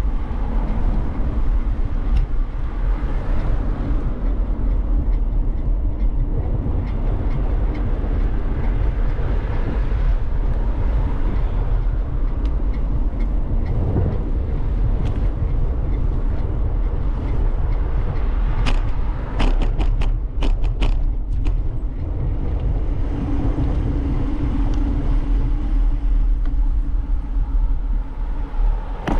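Wind rumbling on the microphone of a bicycle-mounted camera, with tyre noise as the bike rolls along a path. About two-thirds of the way through there is a quick run of clicks and rattles, and a low steady hum follows for a few seconds.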